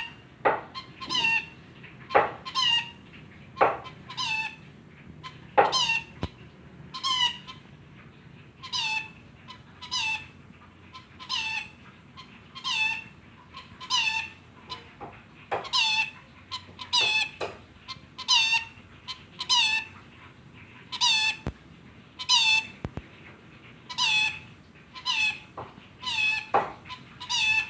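Rainbow lorikeet giving a long series of short, chicken-like calls, each a quick downward-sliding squeaky note, repeated about once a second, with a few harsher, sharper notes mixed in.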